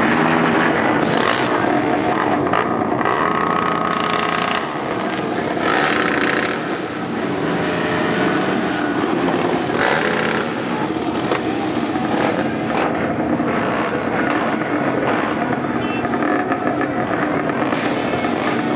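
Many off-road trail motorcycles running together, a continuous din of overlapping engines with riders blipping the throttle now and then.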